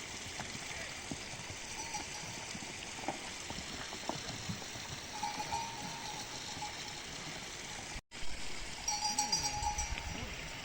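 Small bells, such as those worn by livestock, tinkling in two short runs, about five seconds in and again near the end, over a steady background hiss. The sound cuts out for an instant a little past the middle.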